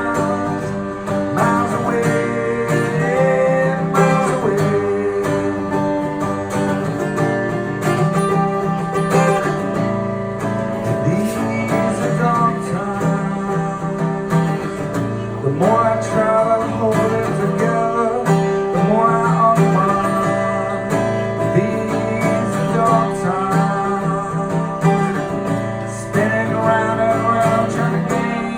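Acoustic guitar strummed through an instrumental passage of a live song.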